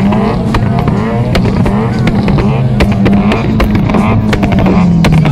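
Subaru car engine running with frequent sharp pops, mixed with crowd voices and background music.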